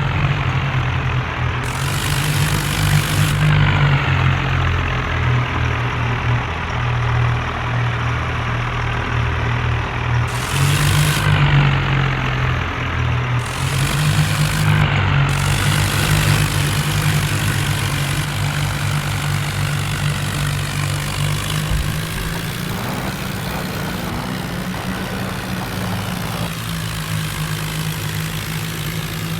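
Tractor engine running steadily at a constant pitch, with three short bursts of hiss about 2, 10 and 14 seconds in.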